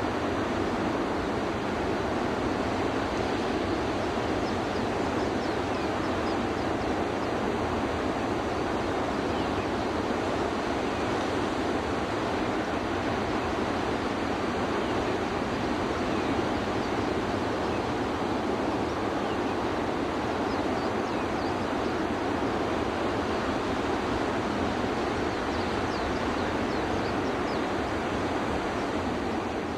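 Steady rushing water, an even roar with no breaks or swells.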